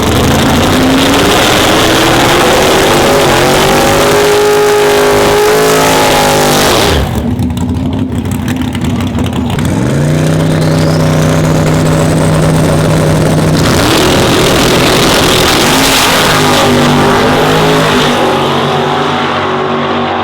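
Race truck engine revving and accelerating hard, its pitch climbing and then holding high. It breaks off sharply about seven seconds in, then climbs and holds again from about ten seconds in.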